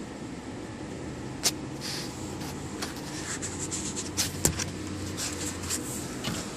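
Handling noise from a phone being moved around while filming: scattered light clicks and scrapes over a steady background hum.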